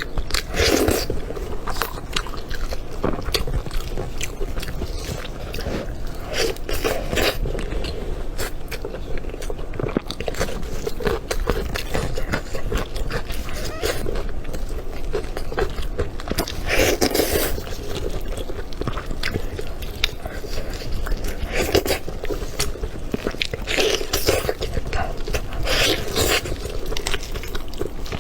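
A person chewing and biting food close to the microphone. Irregular small clicks and wet mouth sounds come with a louder bite or chew every second or two.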